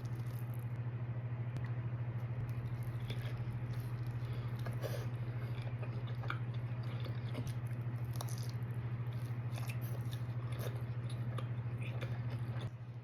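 Close-up chewing and biting of pizza: small irregular crunches and wet mouth clicks. A steady low hum sits under it and stops near the end.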